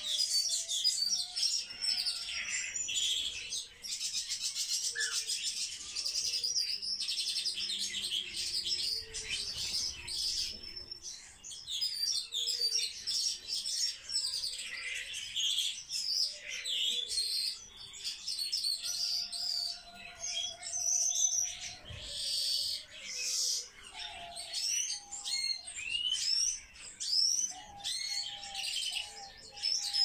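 Swallows and other small birds kept indoors, twittering and chirping continuously in a dense mix of high chirps and trills.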